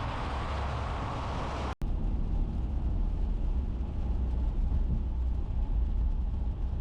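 Car interior noise while driving on wet roads: a steady hiss of tyres and rain over a low road rumble. About two seconds in the sound cuts out for an instant, then comes back deeper and rumblier, with less hiss.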